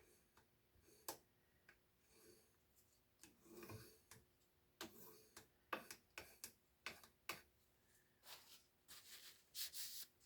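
Faint, scattered light clicks and taps of handling a paint can and its lid, coming more often near the end, over near silence.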